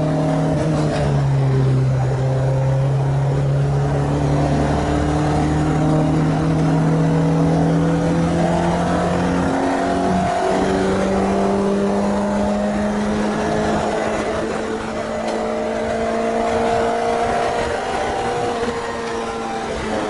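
Renault Clio 2 RS's freshly rebuilt 2.0-litre four-cylinder engine running on track, being tested for the first time after the rebuild. The revs climb slowly and steadily, with a brief dip about a second in and another about ten seconds in.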